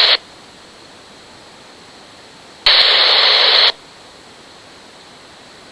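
RadioShack Pro-97 police scanner between dispatch transmissions: a transmission cuts off just after the start, leaving a faint hiss, and about two and a half seconds in the squelch opens on a one-second burst of loud static with no voice before cutting off again.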